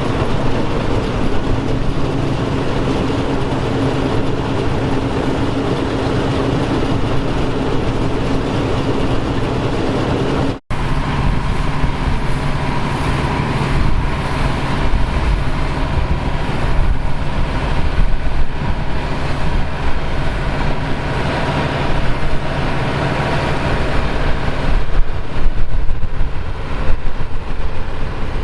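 Engines of vintage harvest machinery running steadily. After an abrupt cut about ten seconds in, a different machine takes over with a steady whine, and louder knocks come near the end.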